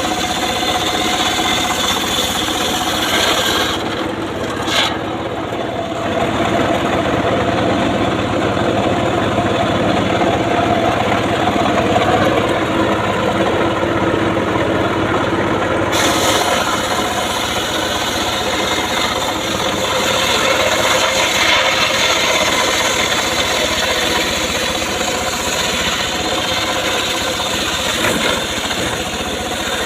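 Homemade circular saw, driven by an engine, ripping mahogany: a continuous rasping cut over steady machine running. From about four seconds in the high hiss of the cut drops back, then comes back strongly about halfway through.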